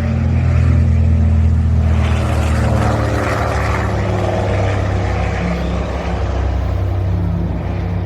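Aircraft engine running with a steady low drone, and a rushing noise that swells about two seconds in and then slowly fades, as of an aircraft passing.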